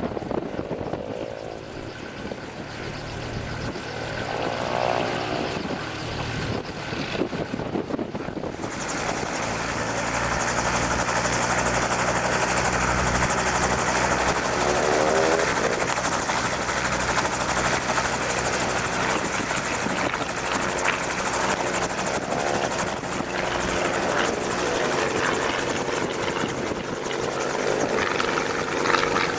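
Robinson R22 helicopter running, with steady rotor and engine noise that grows louder and brighter about a third of the way in.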